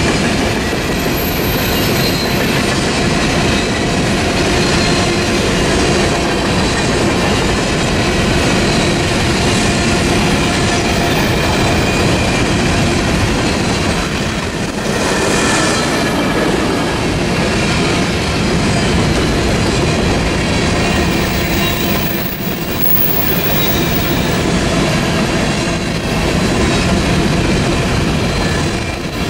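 Freight cars of a CPKC train rolling past on the rails: a steady, loud rumble and clatter of steel wheels on the track, with a faint thin high squeal from the wheels.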